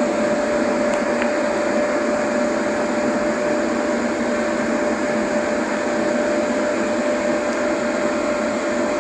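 Steady whirring hum of a running machine, holding one constant mid-pitched tone without change.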